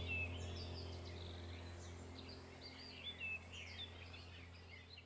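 Many small birds chirping and calling together, short repeated notes, over a steady low hum that gradually fades away.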